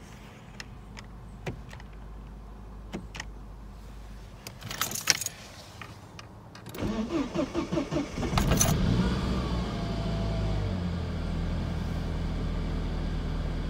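Saab 9-5 on E85 fuel cold-started at −16 °C: after a few clicks, the starter cranks for about a second, the engine catches and flares up, then settles to a steady idle.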